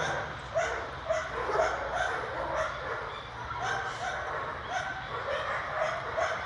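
A dog yipping and whining in short, repeated cries, about two a second, over a steady low rumble.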